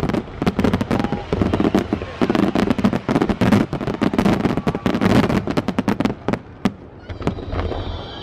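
Fireworks display bursting overhead: a dense run of rapid sharp cracks and bangs that thins out after about six seconds, then a high, slightly falling whistle begins near the end.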